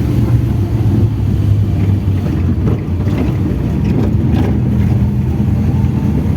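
Trail (dirt-bike) motorcycle engine running steadily while riding.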